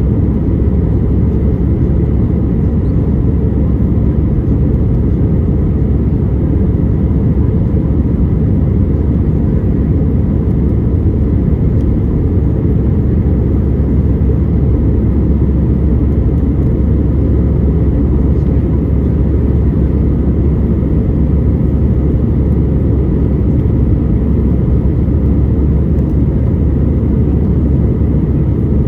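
Airbus A320 jet engines and airflow heard from inside the passenger cabin in flight: a steady, even rumble with a faint high tone above it.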